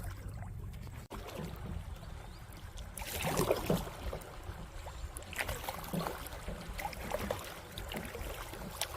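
Water splashing and rushing around a kayak running down a small river rapid, with scattered splashes over a steady low rumble.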